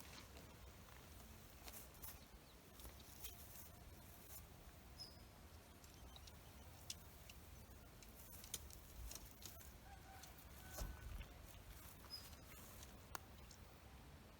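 Near silence: faint forest ambience with scattered small clicks and ticks and two brief high chirps.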